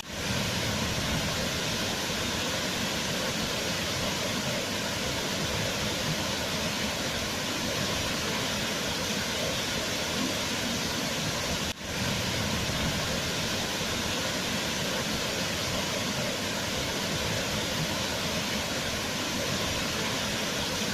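Waterfall: a steady rush of falling water, unchanging, with a brief sharp drop in level about halfway through where the recording is spliced or looped.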